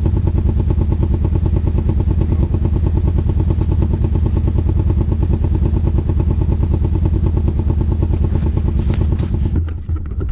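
Engine of an off-road vehicle running steadily close by, with a rapid, even firing pulse. It drops off sharply about nine and a half seconds in, leaving a few clicks and knocks.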